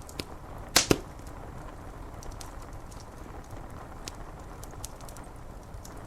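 Wood fire crackling over a steady rush of rain, with scattered small snaps and one loud double pop about a second in.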